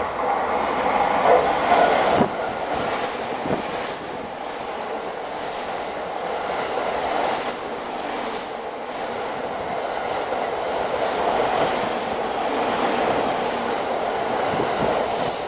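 A JR East stainless commuter electric train, running out of service, passes through the station at high speed without stopping. Wheels on the rails make a loud, continuous rush with a clatter over the rail joints, loudest as the leading cars go by about two seconds in.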